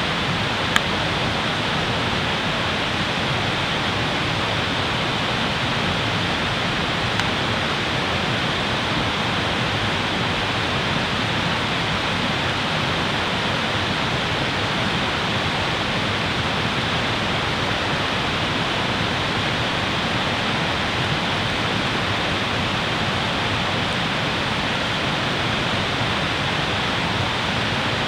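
Steady rushing noise of running water, like a fast stream, with a small sharp pop about a second in and another about seven seconds in.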